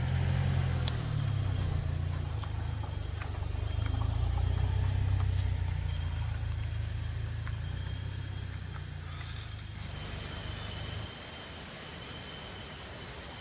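Engine idling with a steady low hum that cuts off suddenly about eleven seconds in, as if switched off. A faint steady high insect-like tone and a few light clicks sound under it.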